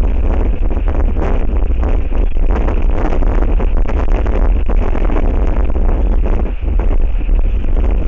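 Strong wind buffeting an outdoor camera microphone: a loud, steady, deep rumble with gusty rushing noise over it.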